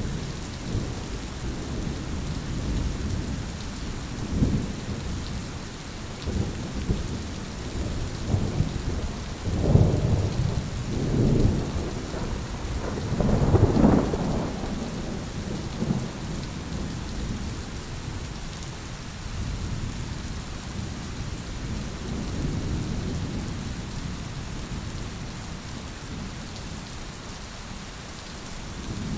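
Steady heavy rain with rolling thunder. The low rumble swells in several surges through the middle, loudest about halfway through, then settles back to a soft grumble under the rain.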